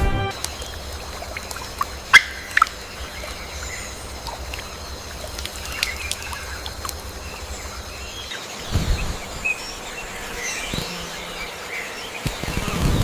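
Birds calling over a steady outdoor background, with two loud, short calls close together about two seconds in and scattered chirps after them.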